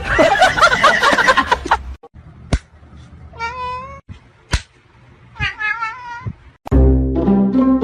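A cat meowing and yowling: a loud, wavering yowl in the first two seconds, then two separate drawn-out meows with two sharp clicks between them. Music with low plucked notes comes in near the end.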